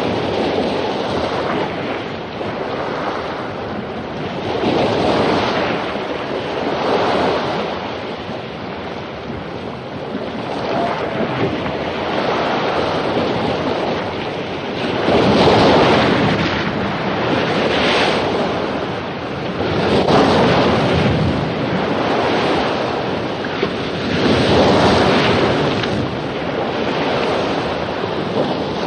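Surf breaking on a beach after a storm: a steady wash of waves with louder breakers swelling and fading every few seconds, the strongest about halfway through and near the end.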